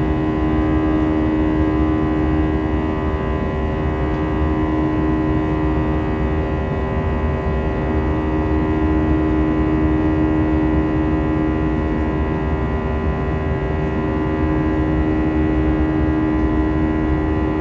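Airbus A320's jet engines running steadily, heard inside the passenger cabin: a constant low rumble with several held humming tones over it.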